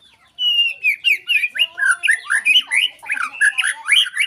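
White-rumped shama (murai batu) singing hard: a fast, unbroken run of varied whistles, sweeps and sharp chips, starting about half a second in.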